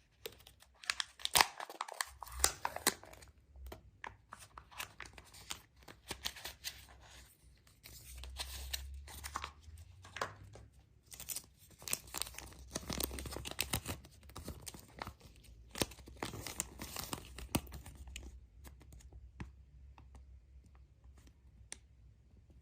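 Surprise-egg wrapping being torn open and crinkled by hand: a run of irregular rips, crackles and sharp little clicks, busiest in two stretches and thinning out near the end.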